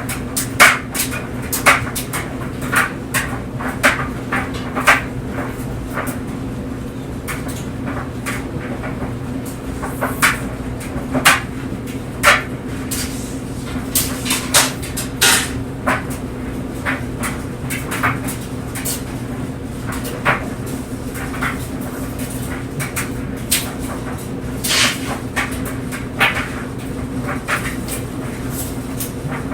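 Clothes dryer running: a steady low hum from the motor and turning drum, with irregular knocks and clicks as the tumbling clothes drop against the drum.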